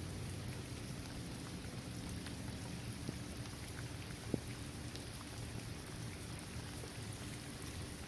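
Steady rain falling on a paved basketball court, trees and grass, with scattered individual drops ticking through it and one sharper drop about four seconds in.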